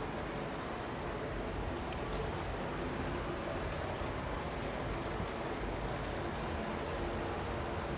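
Steady traffic noise of a city street: engines hum under an even wash of road noise, with no single event standing out.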